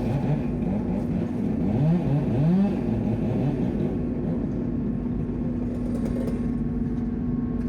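A crane engine runs with a steady hum. In the first three seconds a motor revs up several times in quick rising sweeps.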